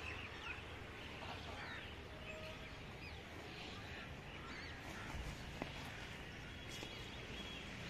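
Faint outdoor ambience: scattered short bird chirps over steady low background noise.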